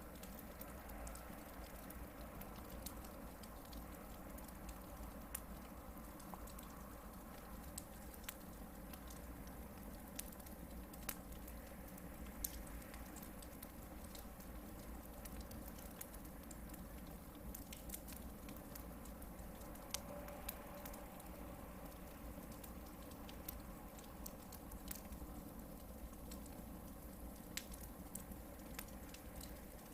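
Hardwood firewood burning in a campfire, crackling with scattered small pops and snaps over a faint steady low background.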